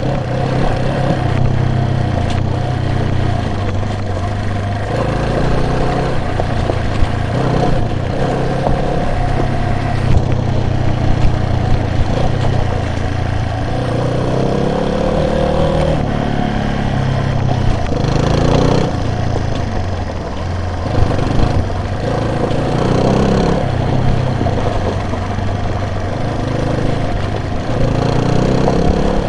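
A vehicle's engine running while driving, its pitch rising and falling several times over steady road noise.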